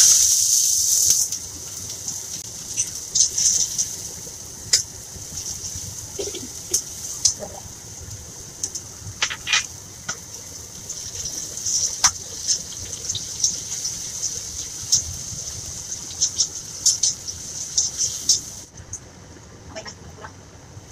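Chopped red chilies and shrimp paste hitting hot oil in a wok: a sudden loud sizzle, then a steady sizzle with crackling and popping as they fry, with a few sharp scrapes of the spatula against the wok. The sizzle drops away near the end.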